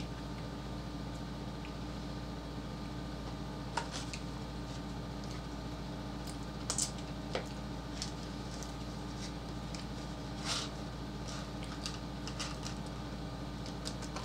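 Cardboard sleeve of a Jollibee peach mango pie being handled and opened, with scattered crinkles and taps over a steady background hiss. There is a bite into the crisp fried pie crust near the end.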